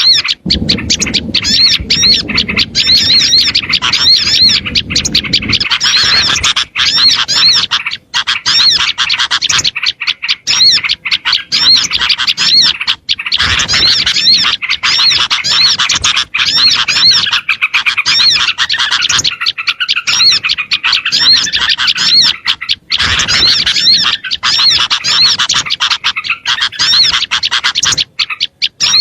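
A dense, noisy chorus of small songbirds calling over one another, rapid high chirps repeating without a break: a bird-lure recording used to call small birds in. A low rumble sits under it for the first few seconds.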